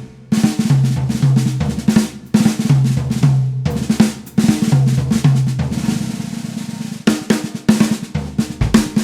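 Snare drum played with fast strokes and rolls, lower ringing drum tones sounding under them. The playing breaks off briefly at the very start and again about three and a half seconds in.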